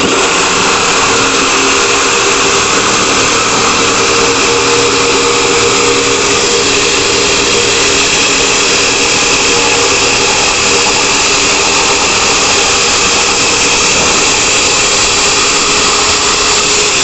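Lotus 550 W electric jigsaw switched on and running steadily while cutting a curve through wood: a loud, even motor buzz with the rasp of the reciprocating blade.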